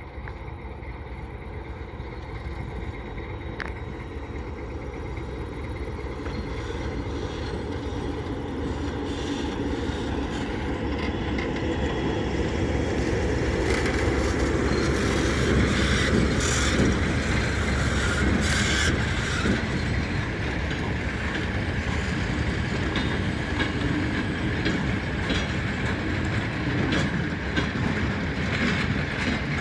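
Freight train rolling past on the rails, growing steadily louder over the first half as it approaches. Its wheels then clatter over the rail joints with sharp clicks as the wagons go by.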